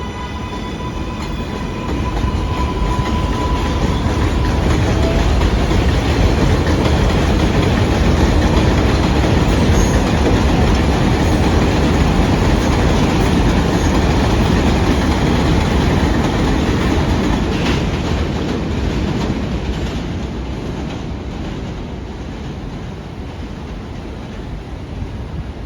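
An R188 subway train on the elevated steel line, its wheels clattering over the rail joints. It grows loud about two seconds in, holds, then dies away over the last several seconds. A thin steady whine sounds during the first few seconds.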